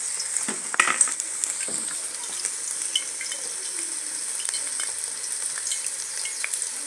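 Cooking oil sizzling and crackling steadily as it heats in a wok, with a couple of louder knocks about a second in.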